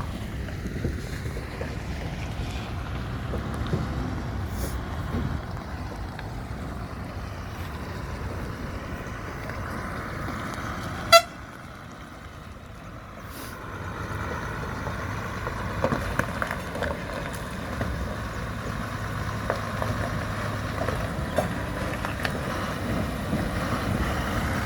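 Truck on the road with steady low engine and road rumble. A single short horn toot sounds about halfway through, followed briefly by a quieter spell before the rumble comes back.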